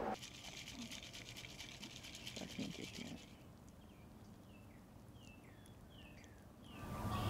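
Faint outdoor ambience: a high, fast-pulsing buzz for about three seconds, then a run of short, falling bird chirps.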